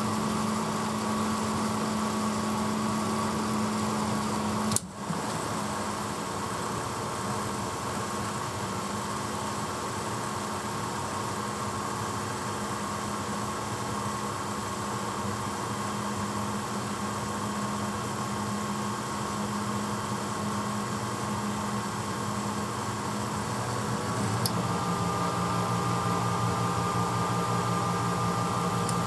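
1986 Hotpoint Potwasher dishwasher running with a steady motor hum. About five seconds in a sharp click cuts the hum's main tone and the machine settles to a quieter whir. Near the end another click brings in a louder motor hum with a new pitch, as the cycle moves from one stage to the next.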